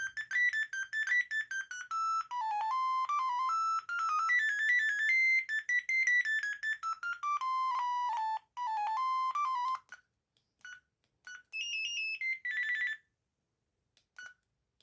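Amstrad S288 mobile phone playing one of its basic built-in ringtones, a run of high electronic melody notes that stops about ten seconds in. Then come a few short beeps and a brief snatch of another ringtone.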